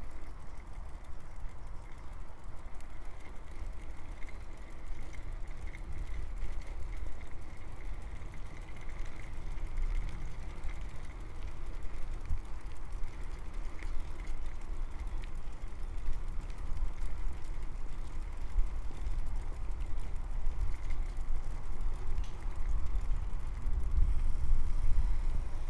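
Low, fluctuating rumble of wind and riding noise picked up by the microphone of a moving bicycle, heavier near the end.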